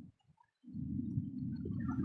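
Steady low rumble of a waterfall, cut off briefly about a tenth of a second in and back about half a second later, with scattered short high chirps above it.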